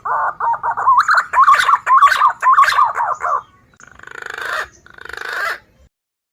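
Green pigeon (punai) lure call: a warbling whistle held around one pitch with quick wavering trills for about three seconds, then two short harsh rasping notes.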